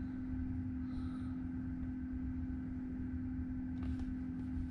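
A steady hum holding one constant low tone over a low rumble, unchanging throughout.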